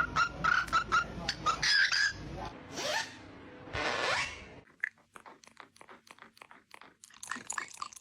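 Parrot calls: a quick run of short, repeated chirps, then two harsh rising squawks about three and four seconds in. These are followed by quieter rapid crunching clicks of something being chewed.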